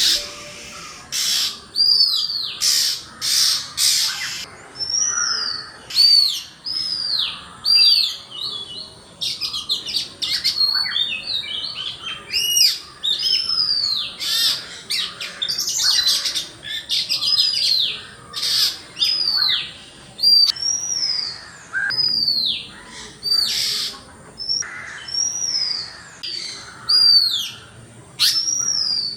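Birds calling over and over: clear chirps that rise briefly and then drop in pitch, mixed with harsh rasping notes, about one or two a second.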